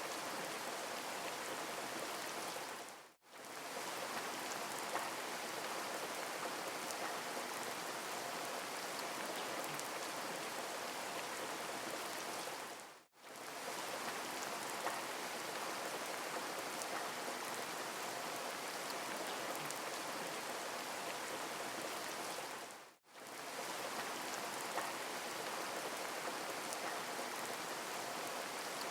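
Steady rain falling on a surface, an even hiss that fades out for an instant three times, about ten seconds apart.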